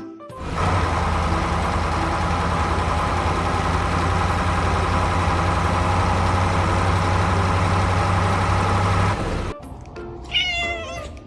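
A loud, steady noise with a low hum runs for about nine seconds and cuts off suddenly, and a kitten meows once near the end.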